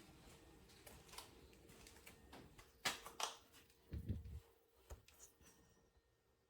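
A few faint, scattered clicks and taps, with a low thump about four seconds in.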